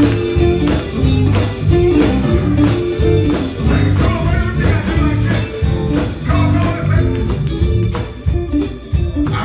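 Live gospel band playing an instrumental passage: electric guitar, bass and drums with a steady beat.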